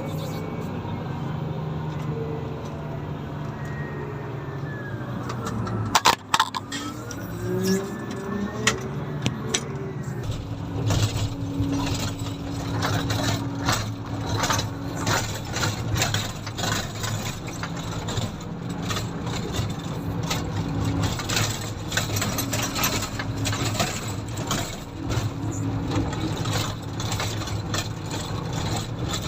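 Komatsu motor grader's diesel engine running steadily, with two sharp clicks about six seconds in. From about ten seconds on the engine works harder and many irregular knocks and rattles come through.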